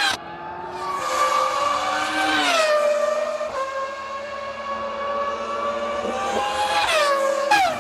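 Formula One cars' 3.0-litre V10 engines running at high revs, the pitch dropping sharply and climbing again as the cars slow and accelerate, with a couple of abrupt jumps between shots.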